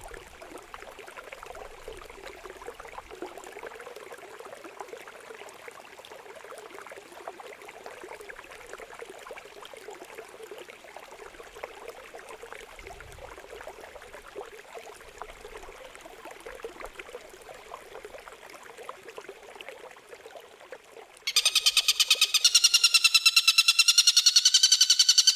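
Trickling water runs as a faint steady splashing. About 21 seconds in, it gives way abruptly to a loud, harsh, buzzy, rapidly pulsed bird call, the rasping 'besetan' type of song used in bird-training recordings.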